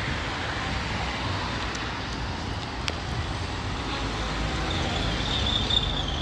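Steady rumbling road-traffic noise, with a short high-pitched whine near the end.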